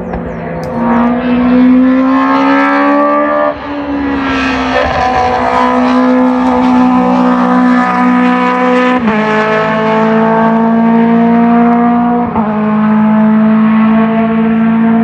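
Race car engine at high revs accelerating hard, its pitch climbing slowly and dropping sharply at three upshifts a few seconds apart.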